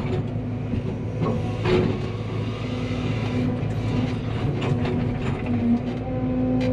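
Cat 320 excavator's diesel engine running steadily, with hydraulic tones held over it and scattered clanks and knocks of the machine at work. The loudest knocks come about two seconds in and again near the end.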